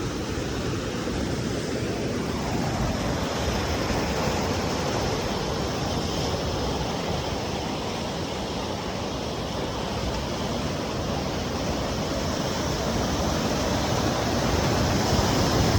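Sea surf breaking and washing against rocky cliffs, a steady rushing noise that swells slightly over the last few seconds.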